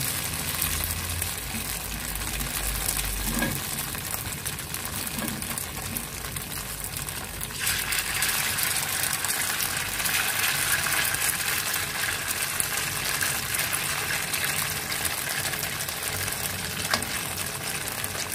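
Tofu and dried-shrimp fritters sizzling in hot oil in a pan, frying over a low flame. The sizzle turns louder about halfway through.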